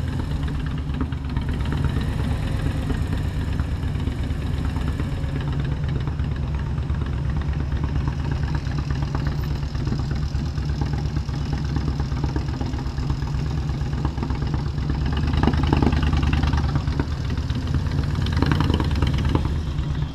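Motorcycle engine idling steadily at low revs, rising a little in level about three-quarters of the way through.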